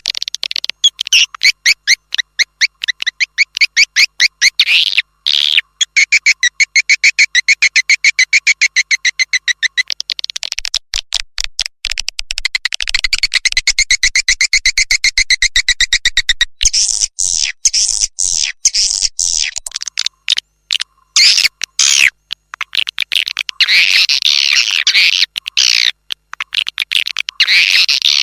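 Swiftlet lure-call recording: dense trains of rapid, high chirps and twittering trills, in fast clicking runs. The sound is used to call edible-nest swiftlets into a nesting house.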